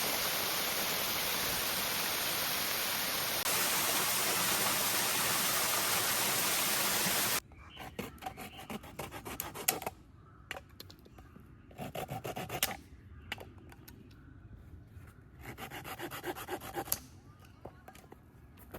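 A steady rushing hiss that cuts off abruptly about seven seconds in. It is followed by short bursts of rubbing and scraping on wood, with scattered sharp clicks between them.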